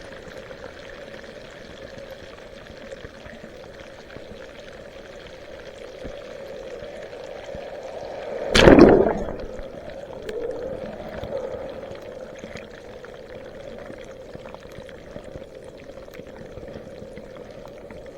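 Water flowing and sloshing steadily around a kayak, with one loud sudden splashing hit about halfway through and a couple of smaller swells of water just after.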